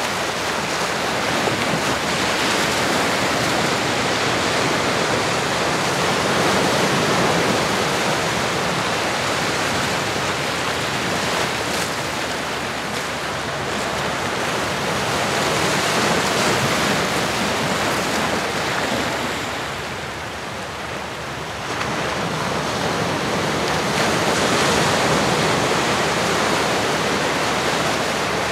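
Ocean surf: waves breaking and washing in a steady hiss that swells and eases every few seconds, with a brief lull about two-thirds of the way through.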